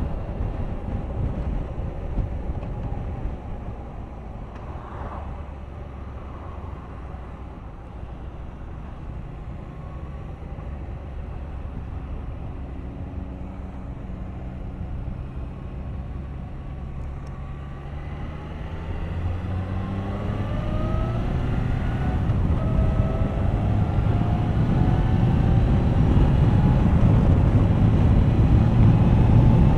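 Suzuki GSX1250FA's inline-four engine running at low revs, then accelerating from about two-thirds of the way through, its note rising in pitch and getting louder.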